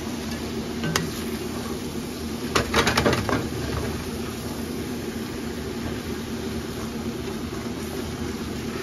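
Steady low hum and rush of a pan of pot pie filling cooking on the stove while it is stirred and thickens. A utensil clicks against the pan once about a second in and a few times in quick succession around three seconds in.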